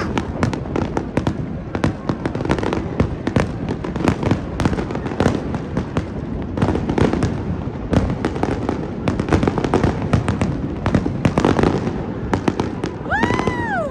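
Fireworks display: a continuous rapid barrage of aerial shells bursting and crackling, many bangs a second with no let-up. Near the end a short pitched sound rises and falls over it.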